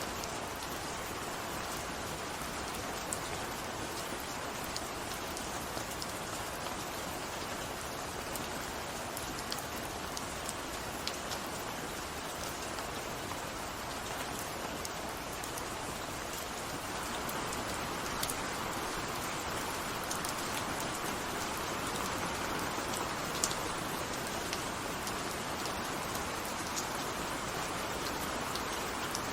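Steady rainfall, an even hiss of rain with scattered sharp drop ticks on a surface, growing slightly heavier a little past halfway.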